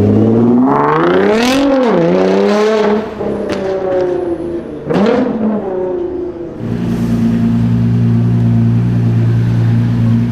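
Nissan GT-R R35's twin-turbo V6 revving up and dropping back twice, then settling into a steady drone about two thirds of the way through.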